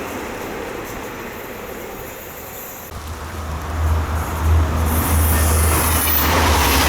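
Train passing a level crossing, its rolling noise fading; about three seconds in a deep low rumble sets in and the sound grows louder and holds steady.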